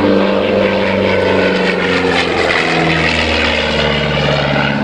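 A vintage propeller aircraft's piston engine running as it flies past. The engine note drops in pitch about halfway through as it goes by.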